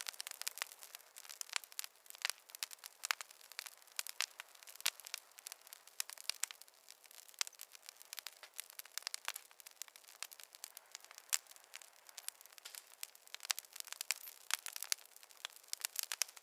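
Wood fire crackling in a fireplace: a dense, irregular run of sharp pops and snaps over a faint hiss, with no low rumble.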